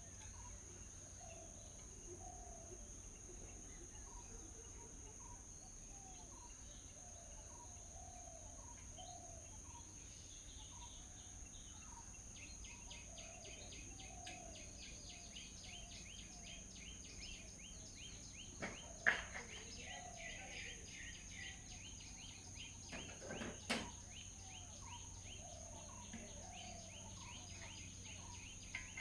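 Birds chirping with short repeated calls, and a fast trill of high notes running through the middle, over a steady high-pitched insect drone. A few sharp knocks stand out about two-thirds of the way in and again a few seconds later.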